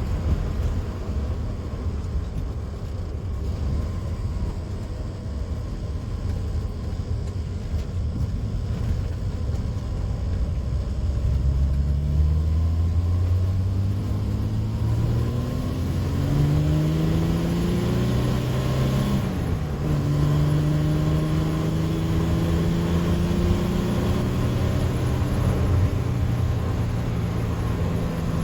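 1979 TVR Taimar's 3.0 Ford Essex V6 on the move: a low rumble at first, then the engine note rising as it accelerates from about a third of the way in, dropping sharply at an upshift about two-thirds through, and climbing slowly again in the next gear.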